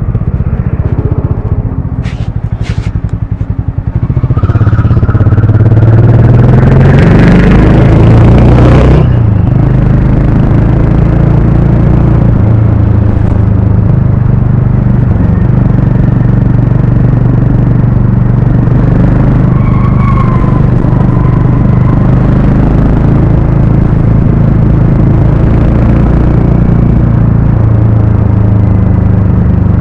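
Harley-Davidson X440's single-cylinder engine and exhaust on the move: it accelerates with a rising note from about four seconds in, drops sharply about nine seconds in, then holds a steady cruising note.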